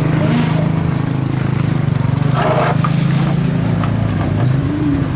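Race car engine idling steadily, a low even hum, with a short rush of noise about two and a half seconds in.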